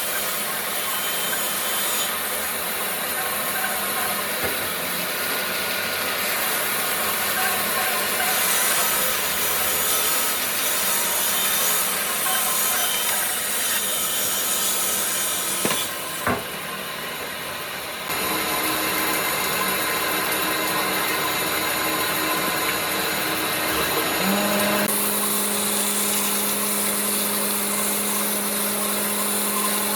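Power tools working wood: a steady, loud run of tool-on-wood noise, broken by a short quieter gap about halfway. A steady motor hum joins in for the last few seconds.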